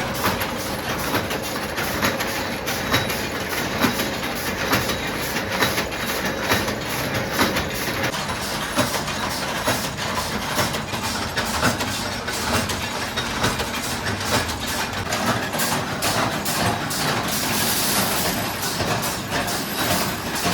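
Steel-chain factory machinery running with dense, irregular metallic clanking and knocking; a louder hiss rises for a couple of seconds near the end.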